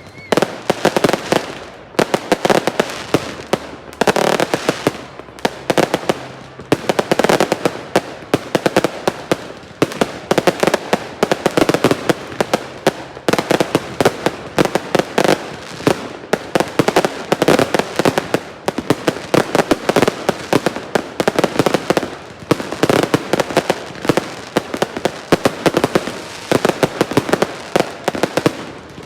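Fireworks going off in a continuous barrage of rapid sharp cracks and pops, swelling in dense waves about every two seconds.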